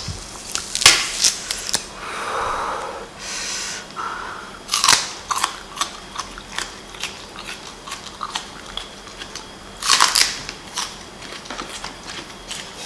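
Crisp crunching bites and wet chewing of a raw green onion stalk, close to the microphone, with loud crunches about a second in, near five seconds and around ten seconds.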